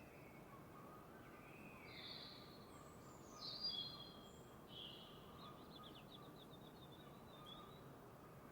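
Songbirds singing faintly over a low, steady hiss: several short chirping phrases, the loudest about three and a half seconds in, then a quick trill.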